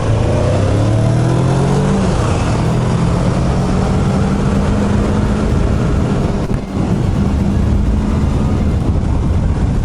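Motorcycle engine, the rider's Kawasaki ER-6n parallel twin, pulling under acceleration. Its pitch rises for about two seconds, then holds steady, with wind rushing over the microphone throughout.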